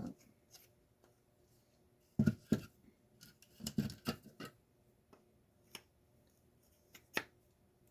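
Scattered clicks and light knocks of small garage door opener parts being handled and set down, a few clusters of taps with quiet gaps between.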